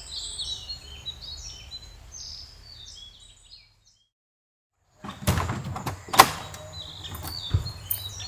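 Small birds singing with many quick chirps, cut off to dead silence for about a second and a half a little past the middle; the birdsong then returns along with a series of sharp knocks and clicks.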